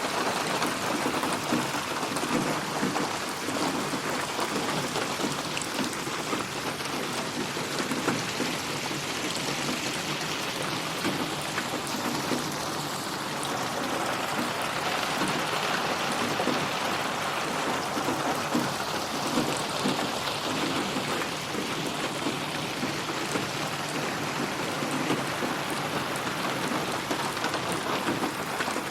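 Steady, dense rain falling on a surface, a continuous hiss of drops. It is processed as 8D audio, so the rain slowly swells and shifts as it is panned around the listener.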